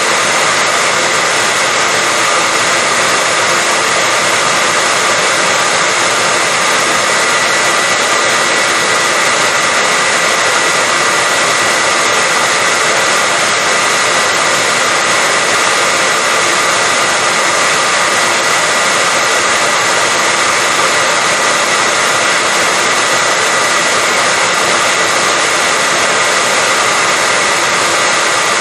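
Hair dryer running steadily: a loud, even rush of air with a constant high whine from its motor.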